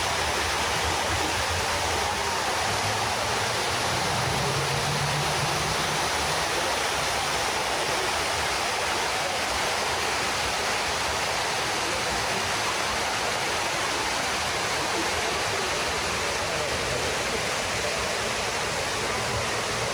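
Water pouring down the walls of the 9/11 Memorial's reflecting-pool waterfall, a steady rushing.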